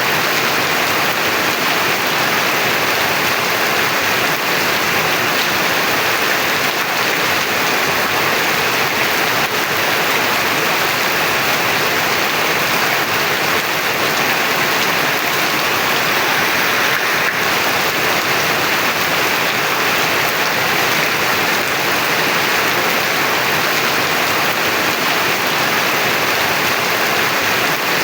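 Heavy rain falling steadily, an even, unbroken hiss with no thunderclaps.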